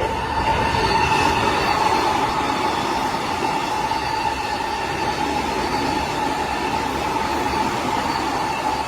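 Tokyo Metro 15000 series commuter train running, a steady high whine over rumbling wheel-on-rail noise.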